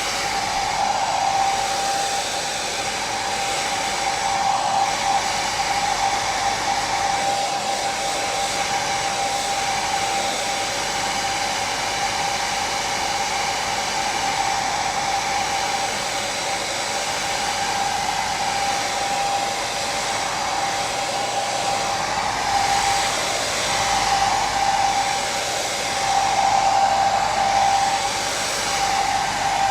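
Hair dryer running steadily: a continuous airy rush with a steady whine from the motor, swelling slightly now and then.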